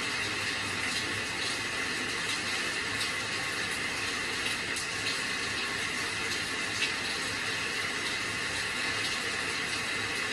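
Steady rainfall, an even hiss with faint scattered drop ticks through it.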